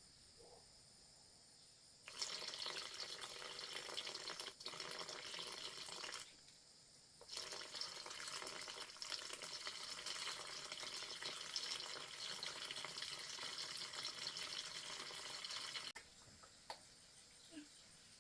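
Water running or splashing steadily. It starts suddenly about two seconds in, breaks off for about a second, then runs on until it stops suddenly near the end.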